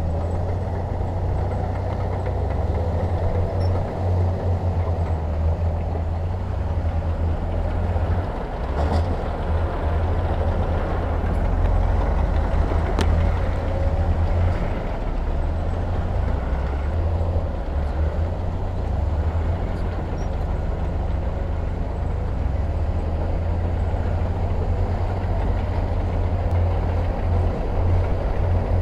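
Diesel engine of heavy earthmoving machinery running steadily with a low rumble.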